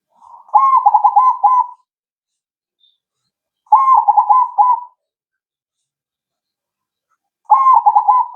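Crossbred zebra dove (perkutut krosing) cooing: three song phrases, each a quick run of rolling coos lasting a little over a second, a few seconds apart, with the last one still going at the end.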